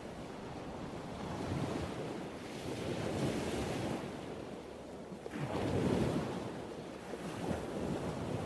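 Ocean surf: waves breaking and washing in, a steady rushing wash that swells and ebbs, with the biggest wave breaking about five and a half seconds in.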